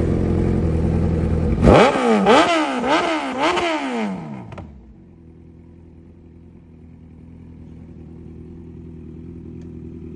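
Suzuki Hayabusa's inline-four engine held at steady high revs, then blipped up and down about five times in quick succession. It then drops back to a quiet, steady idle for the second half.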